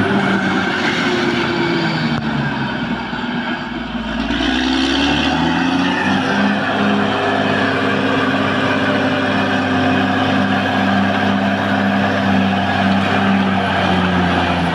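Caterpillar D6R XL bulldozer's diesel engine running hard; its pitch dips about two seconds in, climbs back a couple of seconds later, then holds steady.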